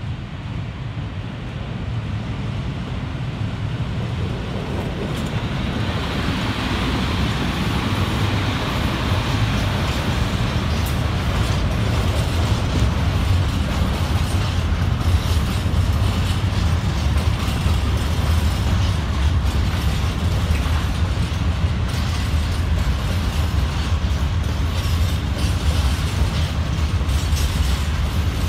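Freight train hauled by an ET41 twin-section electric locomotive approaching and passing, its wagons rolling by with a steady rumble. The sound builds over the first several seconds, then holds as the wagons pass, with a run of rapid clicks from the wheels over the rail joints.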